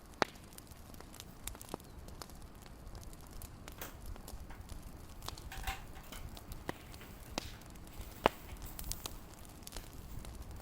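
Wood fire crackling: irregular sharp pops and snaps over a low, steady rumble, with the loudest pops just after the start and about eight seconds in.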